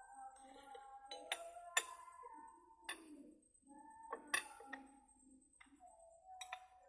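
Several sharp metallic clinks, about eight in all, with the loudest a little under two seconds in and again about four and a half seconds in. Background music with singing plays underneath.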